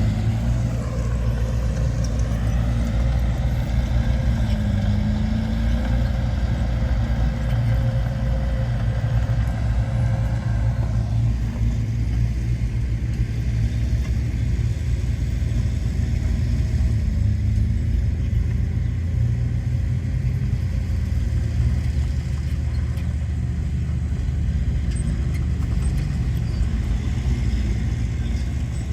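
Heavy diesel earthmoving machinery running steadily with a deep rumble. A higher whine over it stops about eleven seconds in.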